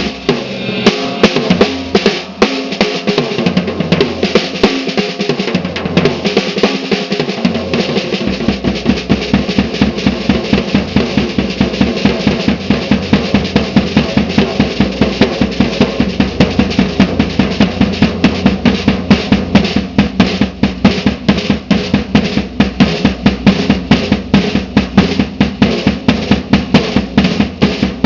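Slingerland Sound Stage drum kit played solo: a steady stream of fast snare and drum strokes in rolls, with a deeper drum coming in about eight seconds in.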